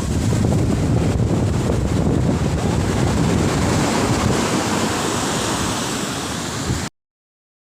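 Wind buffeting the microphone over a steady rush of surf, cutting off suddenly near the end.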